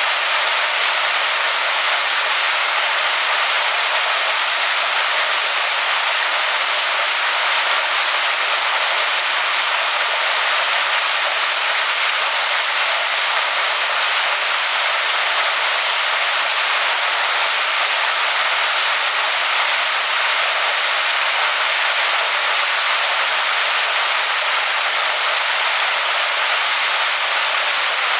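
Waterfall pouring onto rocks: a steady, unbroken rush of falling water, strongest in the higher range, with almost no low rumble.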